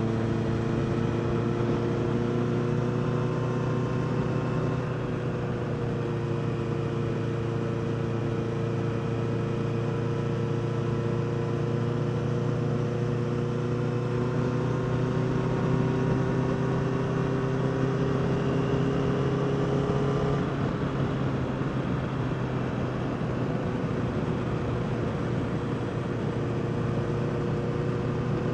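Honda CBR650R's inline-four engine running at a steady cruise under way, its note slowly rising and easing off, with a small change in pitch near the start and again about two-thirds through.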